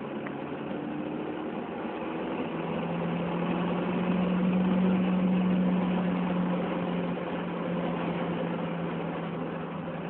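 Peugeot 208 GTi's turbocharged four-cylinder engine pulling hard, heard from inside the cabin over road and wind noise. Its note steps up in pitch a couple of seconds in and grows louder toward the middle before easing slightly.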